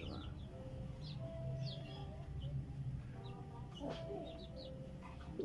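Small birds chirping faintly in quick, short falling notes over a low steady hum.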